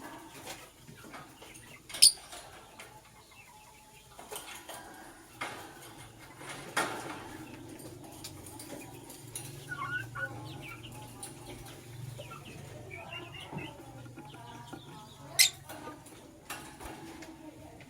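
Caged lovebirds moving about: scattered wing flutters and soft clicks, a few brief faint chirps, and two sharp clicks, one about two seconds in and one near the end.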